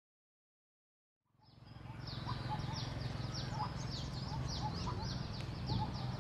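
Dead silence for about a second and a half, then outdoor ambience fades in: many small birds chirping with quick, high, downward-sliding notes several times a second, over a steady low rumble.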